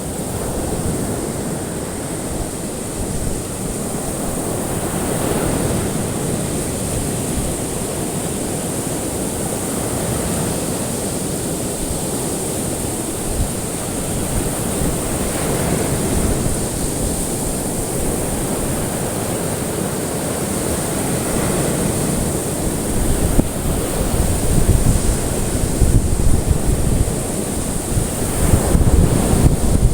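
Ocean waves washing onto a shore: a steady surf wash that swells louder in the last few seconds. A thin steady high hiss runs underneath.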